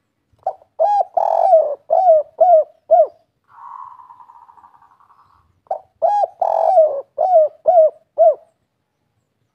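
Spotted dove (tekukur) cooing in the 'kuk 3' style: two phrases of about six hooting notes each, a short note followed by longer coos roughly half a second apart. Between the two phrases comes a softer, fading buzzy trill lasting about two seconds.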